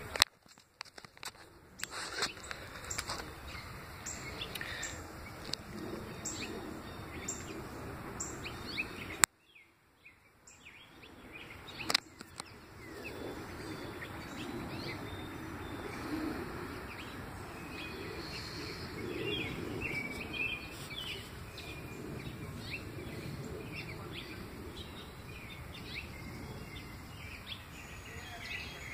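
Small birds chirping over a steady background hiss: short high chirps in the first several seconds, lower scattered chirps from about halfway on. Three sharp clicks are the loudest sounds: one right at the start, one about nine seconds in followed by a second of near silence, and one about twelve seconds in.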